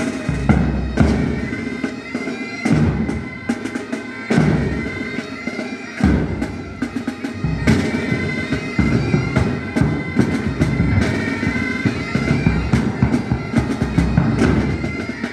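Pipe band playing: bagpipes sound a melody over their steady drone, with drums beating along.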